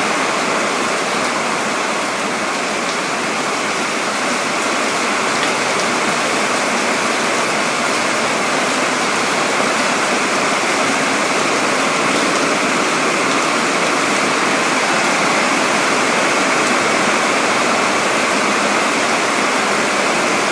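Heavy rain pouring steadily, a dense unbroken hiss of falling water.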